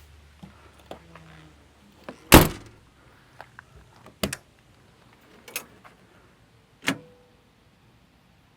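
A vehicle door is shut hard about two seconds in, followed by three lighter clunks a little over a second apart. A low hum stops within the first second.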